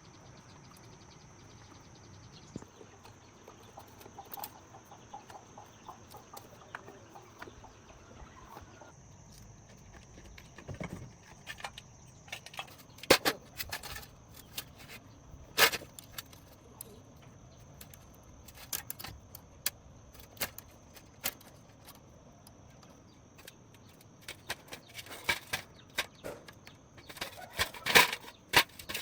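Irregular clicks and clinks, with several sharper knocks around the middle and a quick cluster near the end, over a faint steady high-pitched tone.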